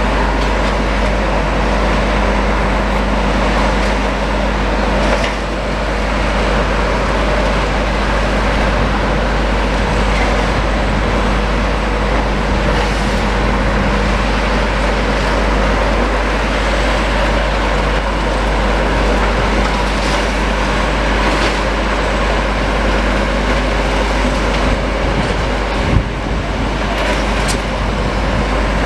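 Demolition machines' diesel engines running steadily under load, with a single sharp knock near the end.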